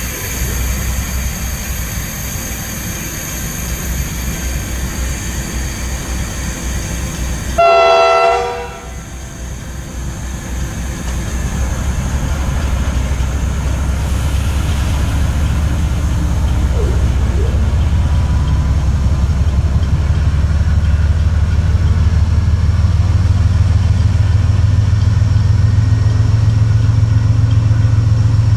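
Diesel freight train with a short, loud horn blast about eight seconds in. After the blast, the low rumble of the locomotive's engine builds steadily louder as it approaches.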